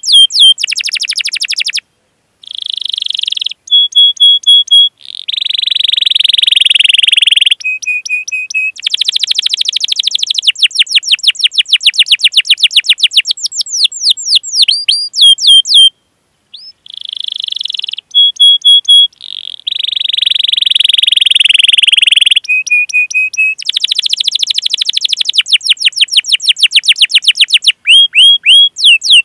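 Canary singing: runs of quick falling 'cuit cuit' chirps, short held whistled notes and long fast rolling trills, with brief pauses between phrases. The same sequence of phrases comes round again about every fifteen seconds, as a looped recording.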